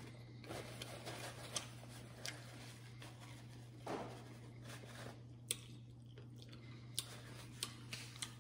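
Faint chewing and wet mouth clicks of someone eating food, with a soft napkin rustle about four seconds in as the mouth is wiped, over a steady low hum.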